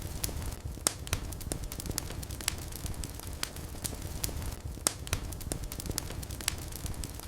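Wood fire burning in a fireplace: a low steady rumble of flames with irregular sharp crackles and pops, several a second, a couple of them louder.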